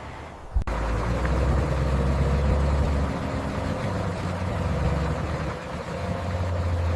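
Dump truck engine running with a steady low drone. The sound changes abruptly just over half a second in.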